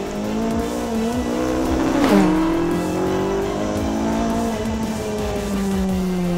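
BAC Mono's four-cylinder racing engine pulling hard under acceleration, its note climbing. About two seconds in there is an instant upshift of the sequential gearbox, with a sharp crack, and then the note climbs again.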